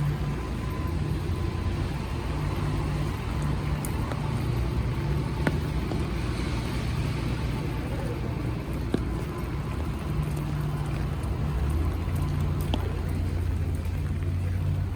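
City street traffic in the rain: cars running past on wet roads, a steady low engine rumble under a wide hiss, with a few small clicks.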